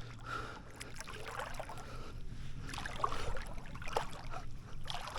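Faint water sloshing against a small fishing boat, with a few light knocks.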